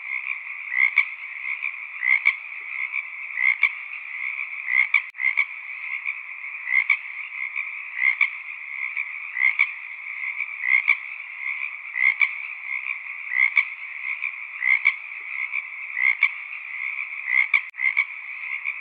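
A chorus of frogs calling without pause, with louder calls standing out at an even pace, about one every second and a quarter, over a steady background of calling.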